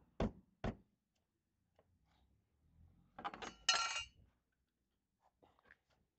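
Two sharp clicks, then about three seconds in a quick cluster of clinks and rattles of small hard parts being handled, with a brief metallic ring.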